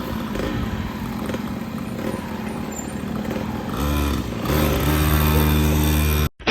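Kawasaki KMX 125 dirt bike's two-stroke engine running. About four seconds in, it gives way to a steady held tone that cuts off suddenly near the end.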